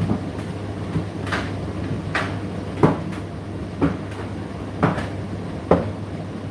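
Indesit IDC8T3 condenser tumble dryer running mid-cycle: a steady motor hum as the drum turns, with a knock from the tumbling load about once a second.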